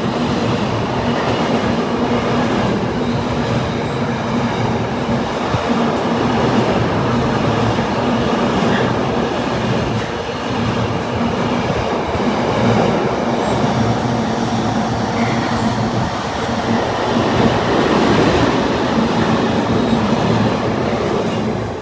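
Locomotive-hauled train running past, wheels on the rails with clicking over the rail joints and a steady low hum underneath, at an even loud level throughout.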